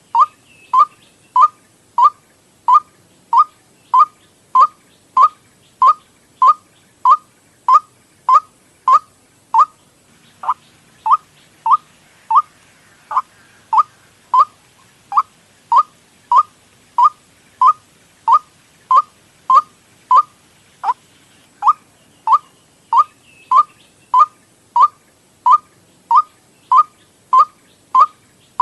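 White-breasted waterhen (ruak-ruak) lure call: short, sharp calls repeated steadily about one and a half times a second, with a brief skip in the rhythm twice.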